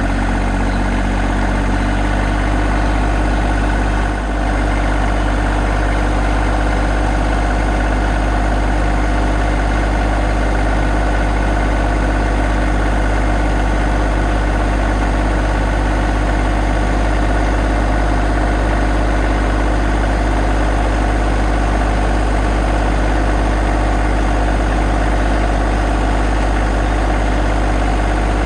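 An engine idling steadily at an even, unchanging speed, with a brief dip about four seconds in.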